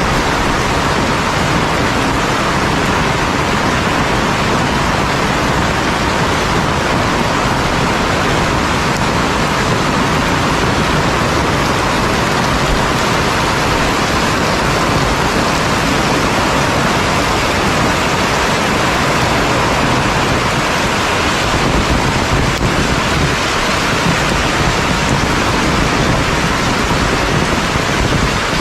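Heavy rain falling steadily, a dense unbroken hiss.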